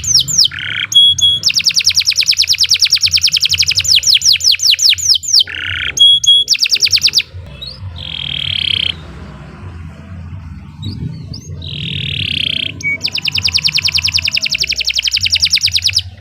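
Domestic canary singing a long, loud song: rapid rolling trills of many repeated notes alternate with harsher buzzy phrases and short rising whistles, with a low steady hum underneath.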